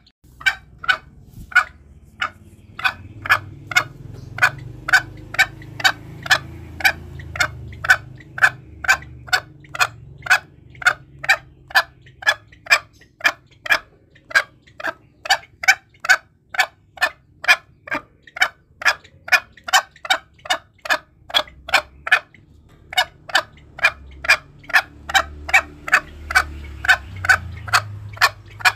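Green junglefowl calling: a long run of short, sharp, evenly spaced notes, about two a second, that breaks off briefly about three-quarters of the way through and then resumes.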